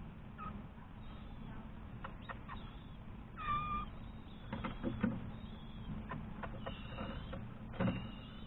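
White-rumped shamas at the nest making a few short calls. One clearer call comes about three and a half seconds in, among soft knocks and rustles, with a louder bump near the end.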